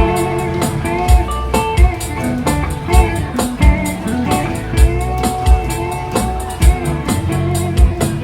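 Live band playing an instrumental passage: guitar lines over a steady drum beat.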